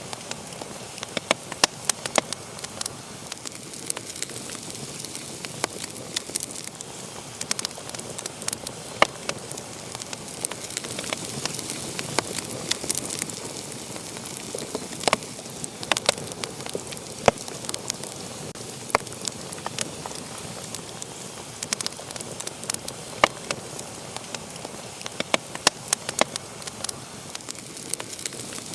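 Wood fire burning in a fireplace: a steady hiss with frequent irregular sharp crackles and pops.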